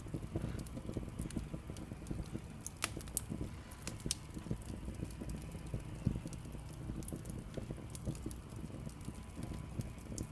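Light, irregular clicks and taps of things being handled, over a low steady hum.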